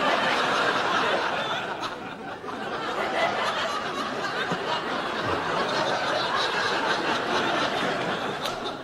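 Studio audience laughing: a long wave of laughter from many people that breaks out suddenly and carries on for several seconds, easing off a little near the end.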